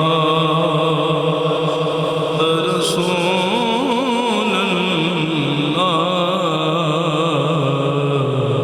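A man's voice chanting a naat in long, held notes whose pitch wavers and turns in ornamented runs.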